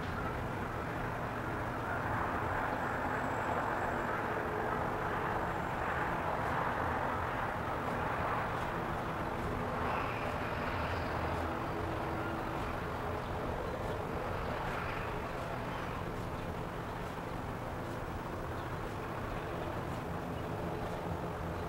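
Steady outdoor background noise with a low hum underneath, like vehicle traffic, holding at an even level.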